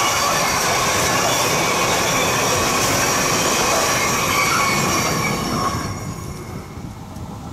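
Intermodal freight train rolling past, its wagon wheels squealing on the rails, until the sound drops away after about six seconds.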